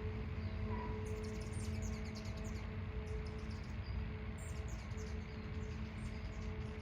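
A small bird's rapid, very high chittering in two short runs, over a steady low rumble and faint hum.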